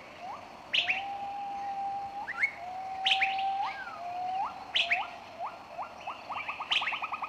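Birdsong: long steady whistled notes, each ending in an upward slur, mixed with sharp high chirps, and a fast trill of repeated notes near the end.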